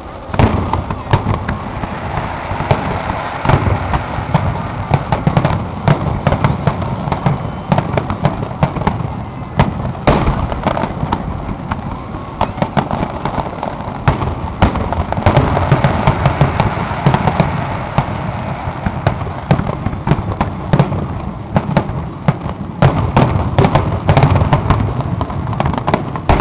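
Fireworks grand finale: a rapid, nearly continuous barrage of shell bursts and crackling, with a heavy rumble under the dense bangs.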